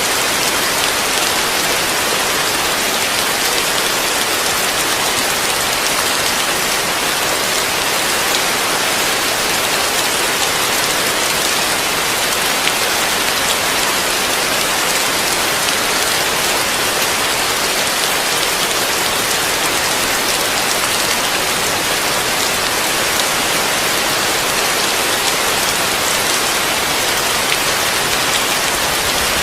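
Heavy rain falling steadily on a roof, a dense unbroken hiss of drops.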